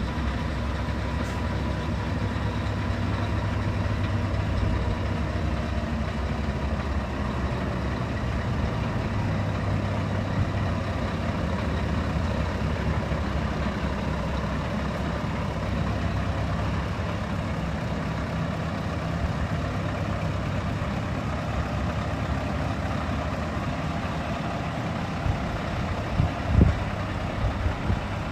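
Scania R730 truck's V8 diesel engine running steadily with a deep note. A few short knocks come near the end.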